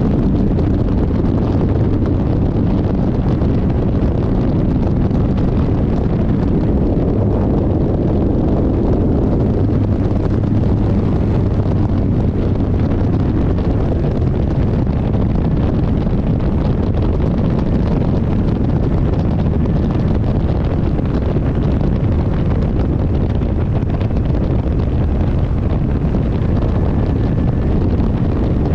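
Steady, loud wind rushing over the microphone, low and rumbling, with a faint steady hum underneath.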